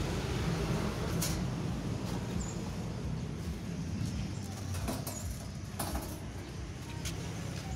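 A few light knocks and clicks from handling the dryer's loose rear metal panel and wiring, over a steady low background rumble.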